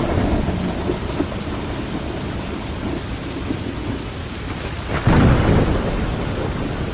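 Steady rain against window glass, over a low rumble that swells louder for about a second some five seconds in.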